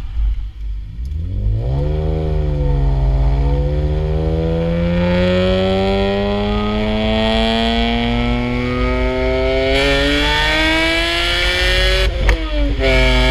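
E46 BMW M3's S54 inline-six, heard through a resonated section 2 and a Megan Racing axle-back exhaust. It runs at low speed, then its pitch rises about a second and a half in and keeps climbing steadily under acceleration for about ten seconds. Near the end the pitch breaks and drops briefly, then climbs again.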